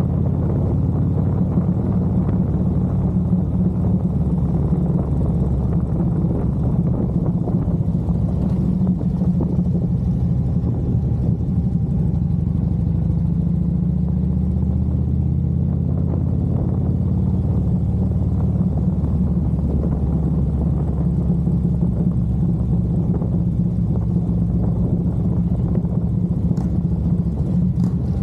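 Harley-Davidson motorcycle engine running at a steady cruise, a continuous low rumble that holds an even pitch and loudness throughout.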